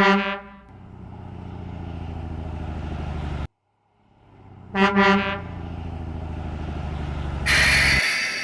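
Garbage truck sound effects: a horn blast followed by a steady engine rumble, repeated twice, then a loud hiss near the end.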